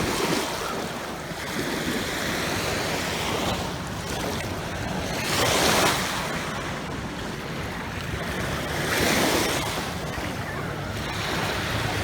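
Ocean surf washing onto a beach: a steady wash with waves swelling and breaking, two louder surges about halfway and three-quarters of the way through, and wind buffeting the microphone.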